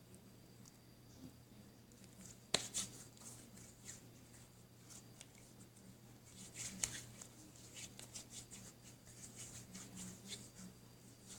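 Slime being squeezed and worked by hand, giving small crackling clicks and pops. There is one sharp click about two and a half seconds in, and a denser run of crackles in the second half.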